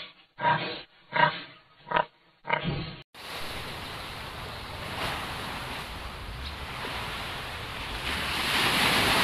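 A domestic pig grunting, about five short grunts some two-thirds of a second apart. About three seconds in it cuts to a steady rushing water noise that swells near the end.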